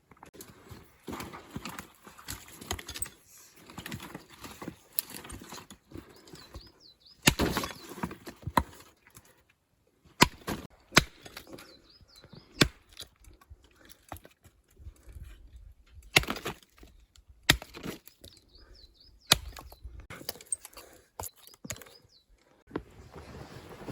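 A series of irregular sharp knocks and cracks, a dozen or so spread unevenly, with softer rustling and shuffling between them.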